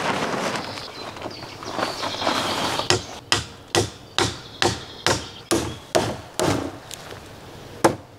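Rustling for about three seconds, then a steady series of sharp blows on wood, about two a second.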